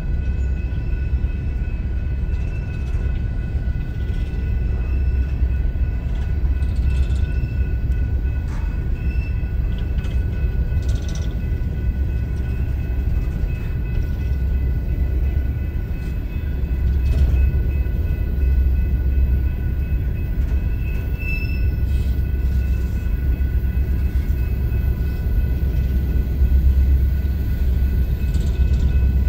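Empty coal train rolling past: a steady low rumble with a faint, steady high whine.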